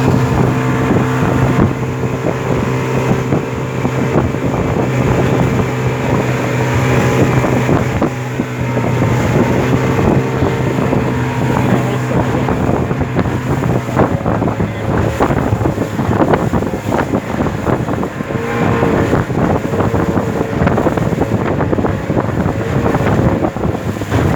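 Motorboat engine running steadily under wind buffeting the microphone; about halfway through the engine hum fades beneath rougher wind and water noise.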